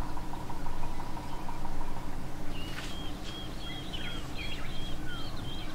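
Wild birds calling over a steady low background hum: from about halfway through, a quick run of short high whistled notes, several a second, mixed with short falling notes.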